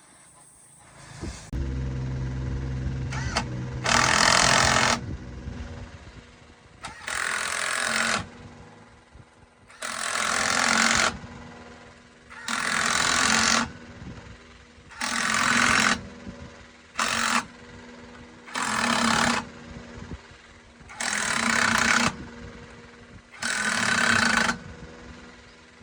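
A pneumatic impact wrench hammering in about nine bursts, each roughly a second long, every two to three seconds, the kind of sound made when working the wheel nuts of a bus wheel. A steady low motor hum starts a second or two in and runs underneath.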